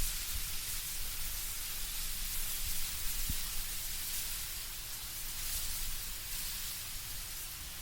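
Wind moving through trees with leaves rustling overhead: a steady soft hiss that swells and eases gently.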